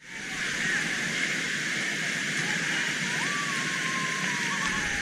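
Waterfall water rushing: a steady, even hiss. A faint thin whistle, slowly falling, comes in over it in the second half.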